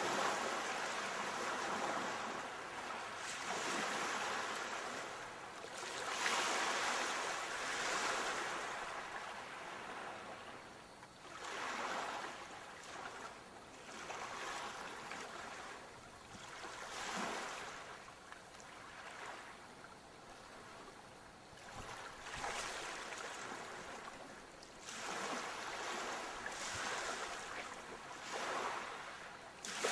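Sea waves breaking and washing in, a rushing surge that swells and fades every few seconds.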